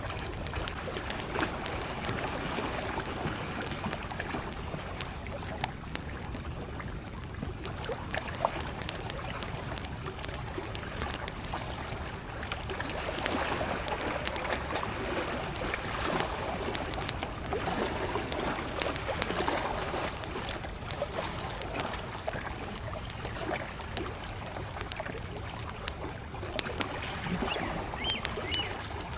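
Small lake waves lapping and sloshing at the shore, with a wood campfire crackling in scattered sharp pops throughout. A brief high chirp near the end.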